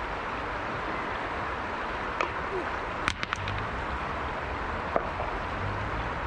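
Mountain river flowing steadily, with a few sharp clicks: one about two seconds in, a quick run of three around three seconds, and another near five seconds.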